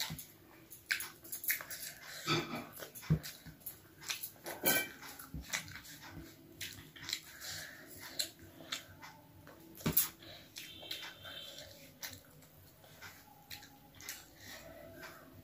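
Close-up eating sounds: chewing and lip-smacking with irregular wet mouth clicks, and fingers squishing and mixing rice with fish curry on a plate.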